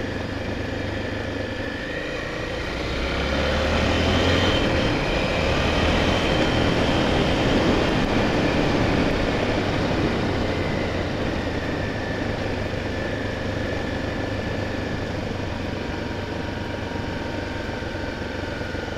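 Honda Tornado 250's single-cylinder four-stroke engine running under load as the dirt bike is ridden through mud. It gets louder for several seconds from about three seconds in, then eases back to a steadier run.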